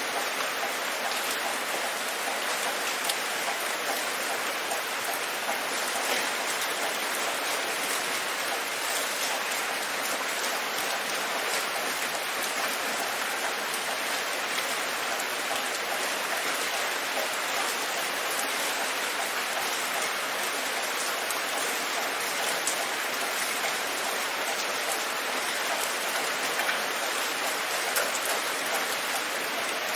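Steady rain falling: an even hiss with scattered louder drops tapping through it.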